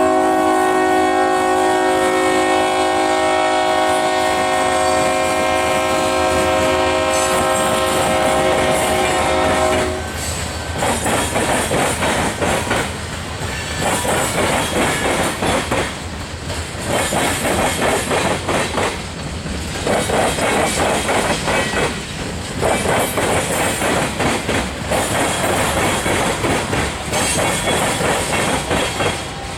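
Freight locomotive's multi-chime air horn held in one long chord, cutting off about ten seconds in. Then freight car wheels clatter rhythmically over the rail joints of the diamond crossing, in groups a few seconds apart as each car passes.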